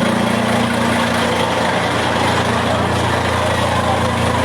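An engine running steadily at idle, a continuous even hum, with people's voices in the background.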